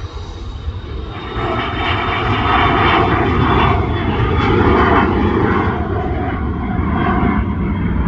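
Jet airliner passing close, its engines a loud rumble and rushing noise that swells about a second in and stays strong.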